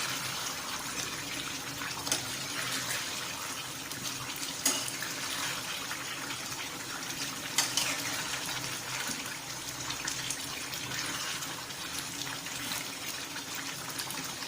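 Chicken and masala sizzling steadily in a pot on high heat while being stirred, with a few sharp knocks or scrapes of the spoon against the pot.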